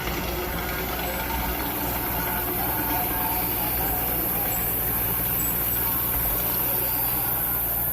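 Diesel engine of heavy earthmoving machinery running steadily under load, with a steady high hiss over it.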